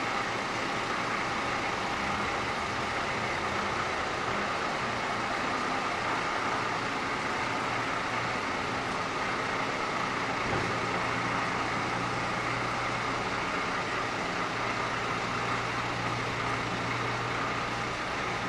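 F-86 Sabre's turbojet engine running steadily during a ground run, a continuous rushing noise with a faint steady whine. A low steady hum joins about ten seconds in.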